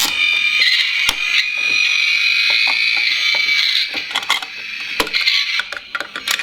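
Dickie Toys garbage truck's built-in electronic sound effect playing through its small speaker: a high, thin, steady electronic sound held for about four seconds, then weaker. Short plastic clicks and rattles from the toy being handled run alongside it.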